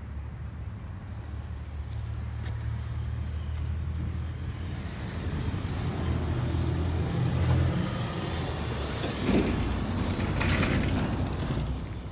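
Mercedes OM460 inline-six diesel engine running in a truck, a steady low rumble that grows louder in the middle. A broad hiss-like noise rises over it from about two-thirds of the way in.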